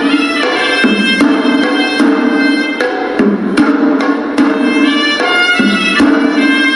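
Hewisi temple music: a reedy horanewa shawm plays a melody of changing held notes over the strokes of traditional Sri Lankan drums.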